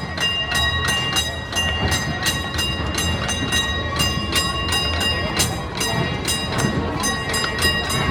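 Horse-drawn streetcar moving along its rails: a steady rapid clatter of about four or five knocks a second, with a ringing metallic tone under it.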